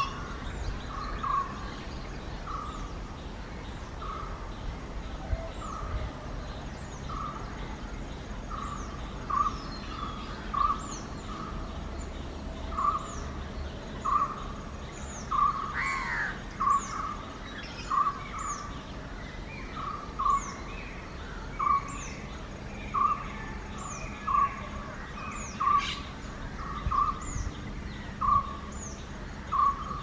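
Bird calls: short notes repeated about once a second throughout, with fainter thin high notes above them. About halfway through comes one longer gliding call from the perched Indian grey hornbill, given with its head thrown back.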